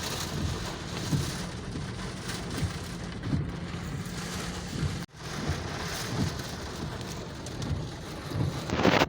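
Rain falling steadily, with a momentary dropout about five seconds in and a brief louder surge near the end.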